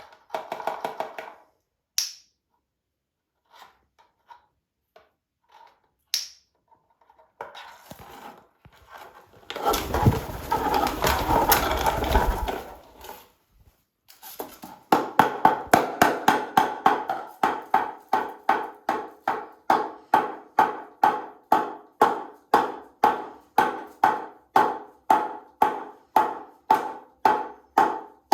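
A parrot's toy being knocked about: scattered knocks and clicks, a few seconds of dense rattling, then a steady run of sharp knocks, about two a second, each with a short ringing tone.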